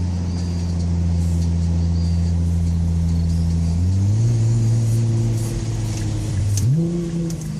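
Nissan GT-R R35 twin-turbo V6 with a Fujitsubo Super Ti titanium exhaust, a steady low drone at cruising revs. It steps quickly up in pitch about four seconds in and again near the end, as the gearbox shifts down. It is heard from inside the cabin with the windows half open.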